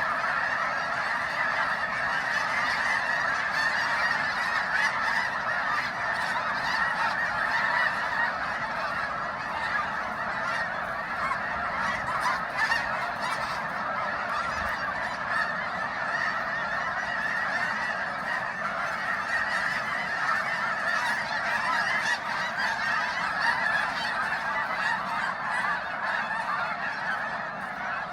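A dense, unbroken chorus of honking from a huge flock of geese, many birds calling at once.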